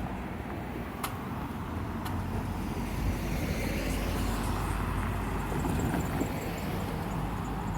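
A car driving past at a railroad crossing, a low road rumble that swells through the middle and eases off. A few sharp clicks about a second apart sound in the first two seconds.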